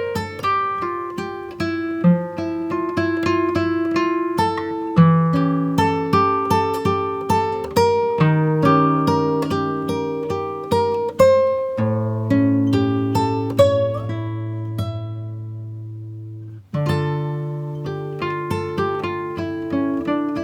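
Background music: acoustic guitar plucking a melody over chords, one chord left ringing and fading for several seconds before the playing starts again.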